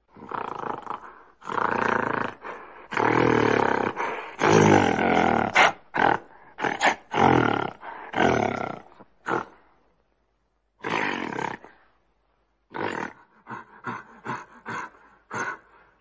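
A large animal roaring and growling in a series of loud, rough calls, strongest a few seconds in. After a pause it gives one more call, then a string of shorter grunting calls near the end.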